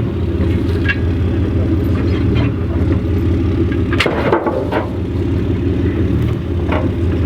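A large vehicle engine running steadily as it is manoeuvred, with a sharp knock about four seconds in.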